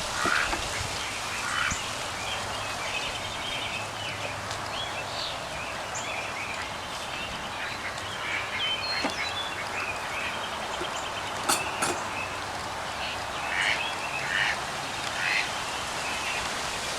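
Birds calling again and again over a steady outdoor hiss, with two sharp clicks about two-thirds of the way through.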